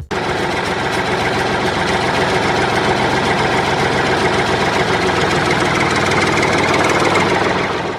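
Tractor engine idling steadily, a dubbed-in sound effect, fading out near the end.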